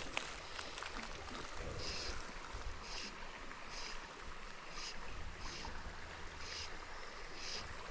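River water flowing steadily, with wind rumbling on the microphone and a short high chirp repeating about once a second.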